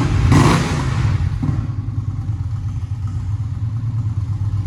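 2021 Indian Challenger's liquid-cooled V-twin running on Rinehart pipes with the catalytic converter deleted. It is louder for about the first second, then settles into a steady idle.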